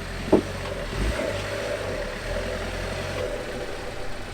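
Car engine running steadily, with a short sharp knock about a third of a second in and a dull thump about a second in.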